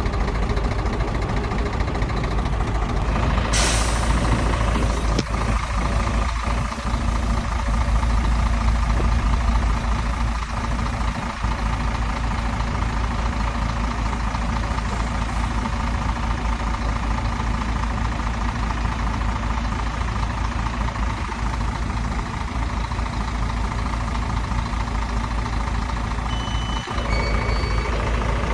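Heavy diesel earthmoving machinery running steadily. A short, sharp hiss of air comes about three and a half seconds in, and a few brief high beeps near the end.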